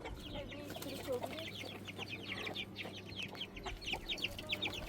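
Chickens clucking, with a dense run of rapid, high-pitched chirps throughout, and a faint steady low hum underneath.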